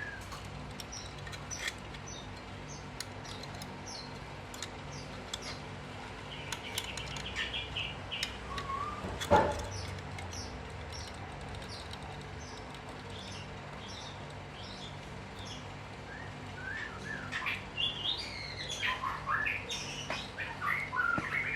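Small birds chirping and tweeting on and off, busiest near the end, with scattered light clicks and one sharp knock about nine seconds in, over a steady low hum.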